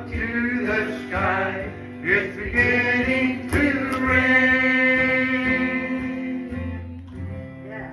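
A gospel song ending: a man sings the final line over guitar accompaniment and holds a long last note from about four seconds in, which then fades away.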